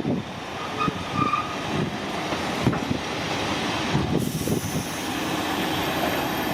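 Train running along the track, a steady rumble with uneven knocks and rattles. About four seconds in, the sound changes and a faint high hiss joins it.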